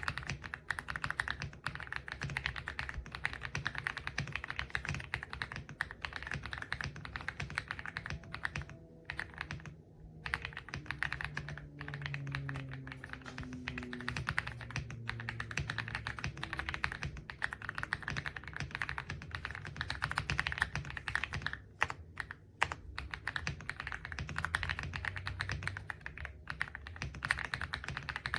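Fast, continuous typing on a mechanical keyboard: a dense run of key clicks with a few brief pauses.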